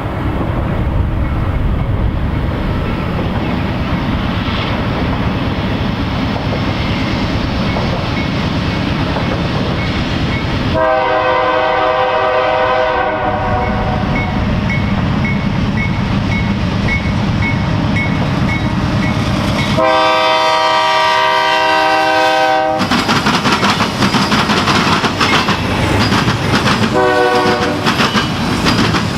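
BNSF C44-9W diesel locomotive passing, its engine rumbling steadily while a bell rings in even dings. Its horn sounds two long blasts and then a short one, the grade-crossing warning pattern. After the second blast the cars start clacking over the rail joints.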